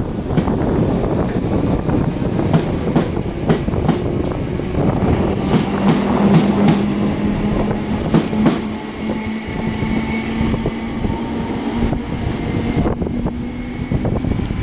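Southern Class 313 electric multiple unit moving through the station, its wheels clicking over rail joints. From about a third of the way in, a steady electric hum with a higher whine runs under the clicks until near the end.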